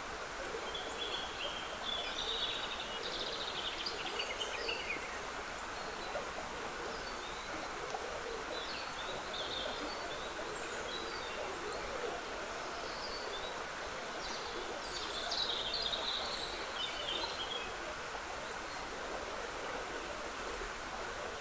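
A small woodland stream trickling steadily, with songbirds singing short high phrases over it in three main bouts: near the start, around the middle, and toward the end.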